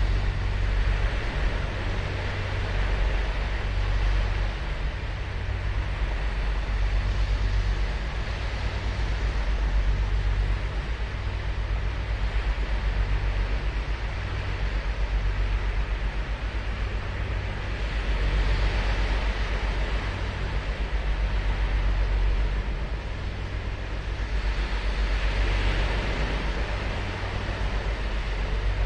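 Ocean surf breaking and washing up a beach, with several swells of hissing wash a few seconds apart over a steady low rumble.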